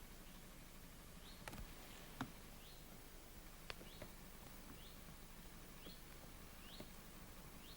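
Near silence with a faint animal call: a short high chirp rising in pitch, repeating about once a second, and a few soft clicks.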